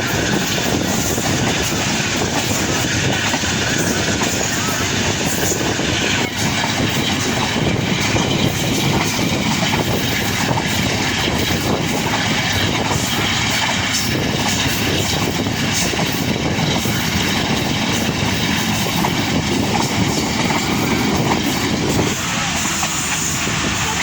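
Passenger train running steadily on the line, the constant noise of the coach wheels on the rails, easing a little near the end.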